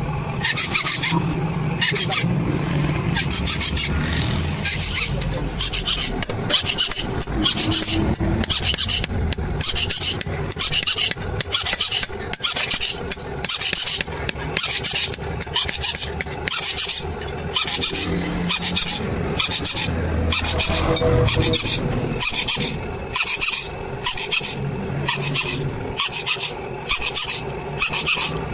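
A hand file rasping along the iron sickle blade in steady back-and-forth strokes, about two a second, over a low engine-like rumble.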